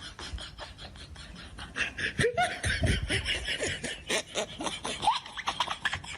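A person laughing in short bursts, louder from about two seconds in.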